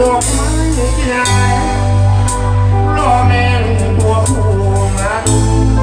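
Amplified live band music with a strong bass line, held melody notes, cymbal crashes and a singing voice.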